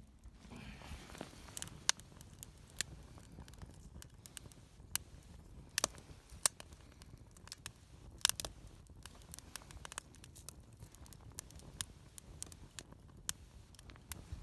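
Wood fire crackling in a Swedish torch, a slit log burning upright: irregular sharp pops and snaps, some loud, over a faint hiss.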